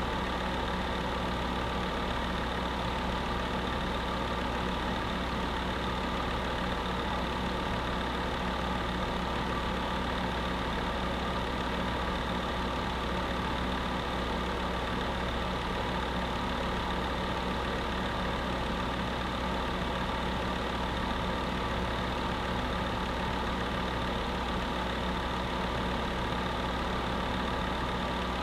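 Electric space heater running steadily: an even fan whir with a low hum and no change.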